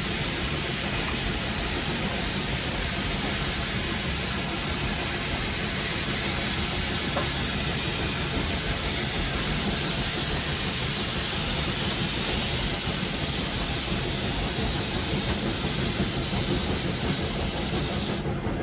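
Steam locomotive running, heard from inside the cab: a steady loud hiss of steam over a low rumble. The hiss cuts off suddenly near the end.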